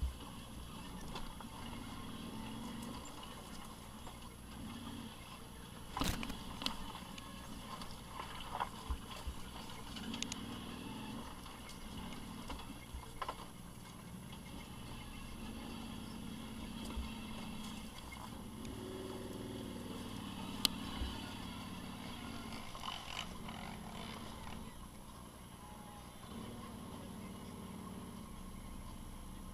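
Off-road vehicle engine running, its note swelling and easing off several times with the throttle, with a few sharp knocks along the way.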